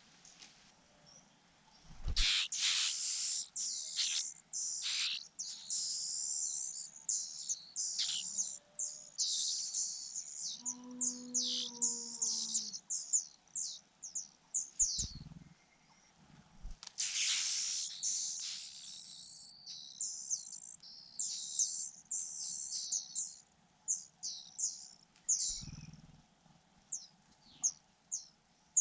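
Rufous-bellied niltava nestlings chirping, high-pitched and rapid, in two long bouts (about two seconds in and again about seventeen seconds in) with scattered single chirps between; chicks begging for food at the nest. A few soft low thumps come in between.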